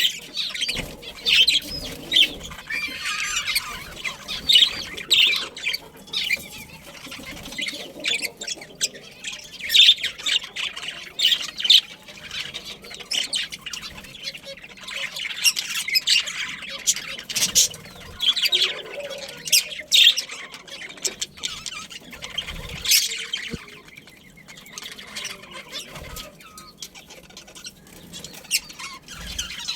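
Budgerigars chattering in a group: a dense, continuous run of short high chirps and squawks.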